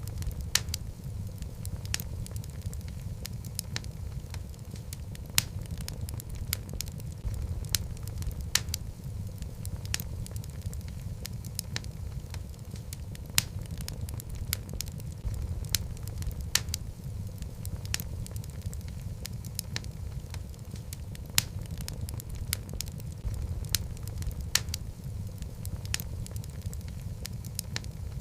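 Wood fire burning in a fireplace: a steady low rumble of flame with frequent sharp, irregular crackles and pops from the logs.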